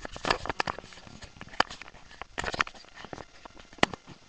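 Irregular sharp clicks and clacks from a Stinger P9 airsoft pistol being handled and shot, several short strikes a second or so apart.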